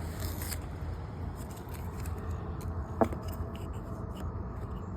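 Masking tape being peeled off a freshly spray-painted car body, with small crackling and rustling of tape and paper and one sharp click about three seconds in.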